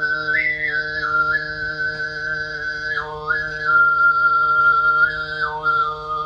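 Tuvan throat singing in the whistling sygyt style: a held low drone with a bright, whistle-like overtone melody above it that steps up and down between a few high notes.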